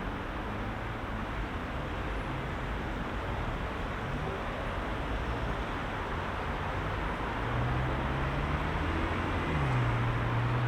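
Heavy rush-hour road traffic: a steady wash of engine and tyre noise, with one vehicle's low engine drone growing louder from about seven seconds in as it passes close.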